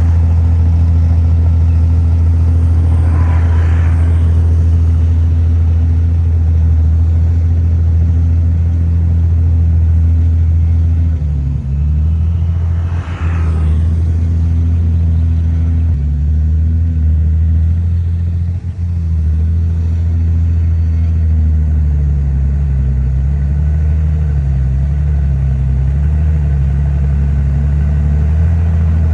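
Komatsu D51PX bulldozer's diesel engine running steadily under load, its pitch dipping and wavering from about the middle onward as the load changes. Two short rushing noises stand out, about three seconds in and near the middle.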